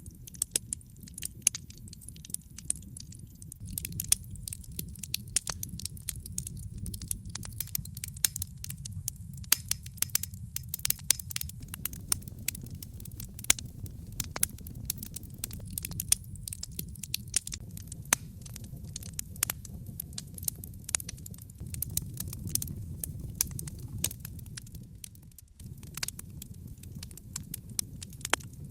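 Logs burning in a fireplace: dense, irregular crackling and popping over a steady low rumble of the flames.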